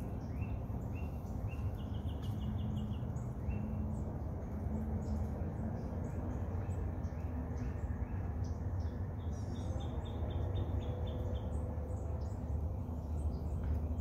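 Small wild birds calling over a steady low rumble of breeze on the microphone. A few short rising chirps open it, then a quick run of repeated high notes about two seconds in, and another run of about nine notes near ten seconds in.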